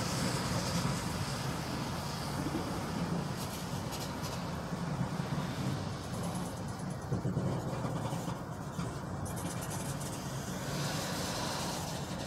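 Freight train of tank cars rolling past, its steel wheels on the rails making a steady rumble.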